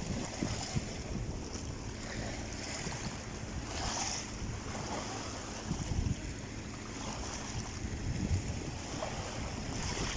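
Sea waves washing on the shore, with wind buffeting the microphone in low gusty rumbles.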